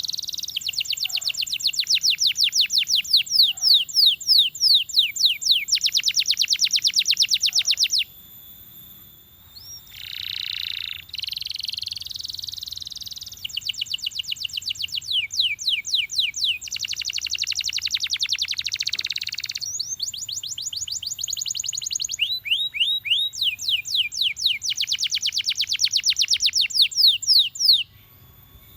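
Belgian canary singing a long song of fast trills and rolls, the repeated notes changing speed from phrase to phrase. There is a short break about a third of the way in, and the song stops abruptly near the end.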